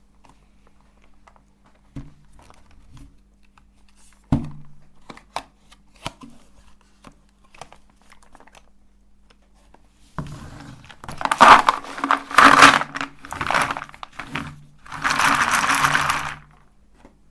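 Colored chalk being crushed in a meat grinder. A few light knocks and clicks come first, then from about ten seconds in loud crunching in several bursts, with a longer, steadier stretch of grinding near the end.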